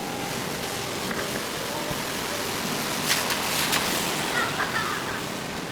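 Steady hiss of rain on a wet city street, with a few sharp ticks and taps about three seconds in and faint distant voices near the end.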